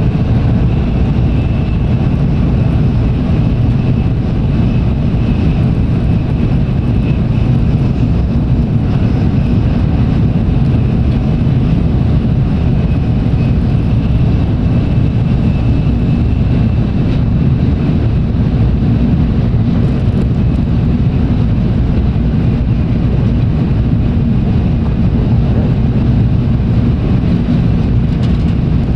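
Running noise of a Tokaido Shinkansen train heard from inside the passenger car: a steady low rumble of wheels and rushing air, with a faint high whine.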